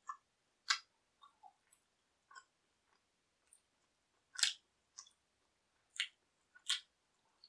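Close-miked mouth sounds of a person chewing pizza: about a dozen short, wet clicks and smacks at uneven intervals, the loudest about four and a half seconds in.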